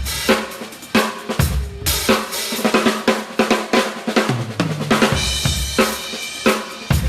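Acoustic drum kit played in a steady groove: kick drum, snare and hi-hat with cymbal wash, several hits a second.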